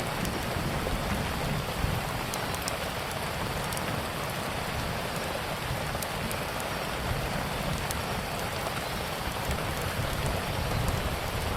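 Steady rain, a continuous even hiss with a low rumble underneath, with scattered small sharp crackles from a wood fire.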